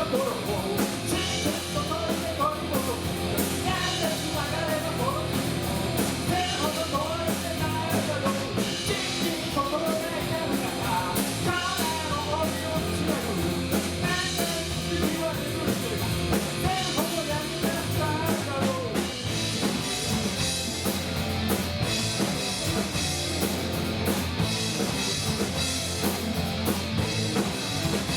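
A band playing a rock song: drum kit, guitar and a singing voice.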